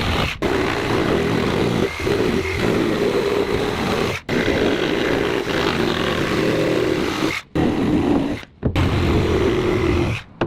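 A loud motor-driven power tool running steadily, breaking off abruptly about four times.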